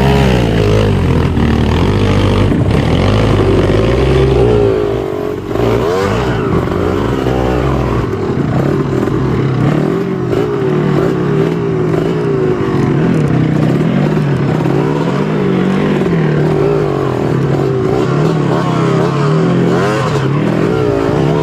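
Off-road trail motorcycle engine being ridden, its revs rising and falling over and over as the throttle is worked, with a brief drop in level about five and a half seconds in.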